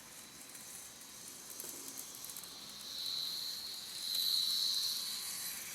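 Model trains running on the layout: a faint, high hiss of small wheels and motors on the track, swelling about three seconds in and again, louder, around four to five seconds as a train comes closer.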